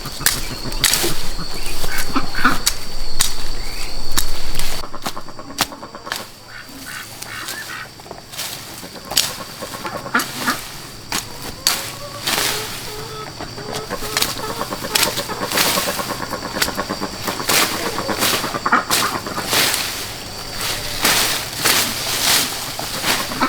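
Domestic fowl honking and calling several times, among many sharp knocks and over a steady high-pitched tone.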